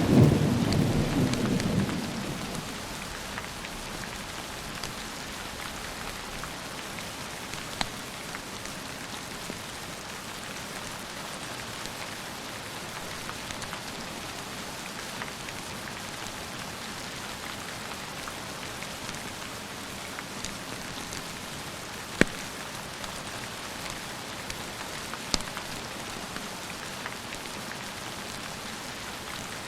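Steady rain falling, with the tail of a thunder rumble dying away over the first two seconds. A few sharp clicks are scattered through the rain, two of them louder in the later part.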